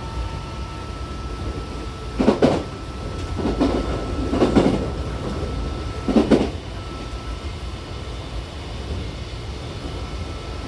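Odakyu 70000 series GSE train running: a steady low rumble with a faint steady tone above it, and three louder noisy bursts, about two, four and six seconds in, the middle one the longest.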